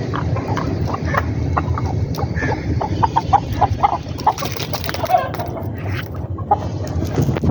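Leghorn chickens clucking: many short, scattered clucks from several birds, over a steady low rumble.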